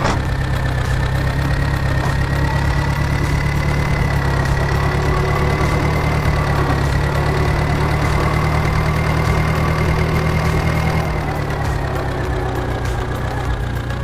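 Small motor of a miniature model tractor machine running steadily, with a low hum and a thin high whine. It eases slightly lower in pitch and level about 11 seconds in.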